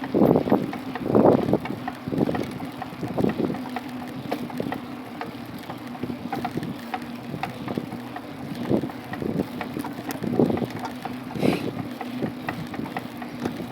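Wind buffeting the microphone while riding a bike, in gusts that are strongest in the first second or two. Under it runs a steady low hum, with many small clicks and rattles.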